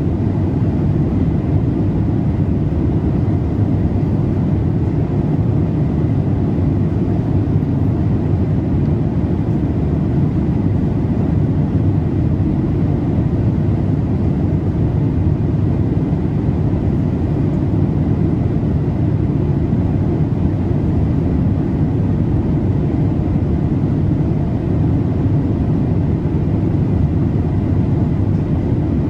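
Steady, even roar of airliner cabin noise inside a Boeing 787-8: deep and rumbling, with a softer hiss above, unchanging throughout.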